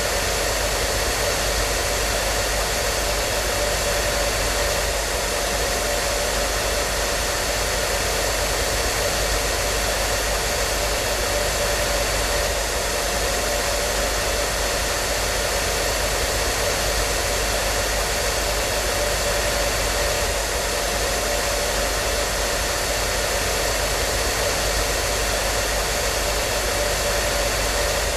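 Hair dryer running steadily: a constant rushing of air with the motor's steady hum, unchanging throughout.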